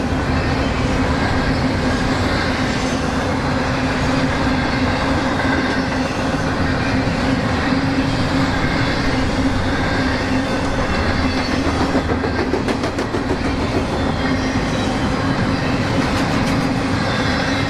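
Freight train rolling past close by, with a steady loud rumble and wheels clicking over the rail joints.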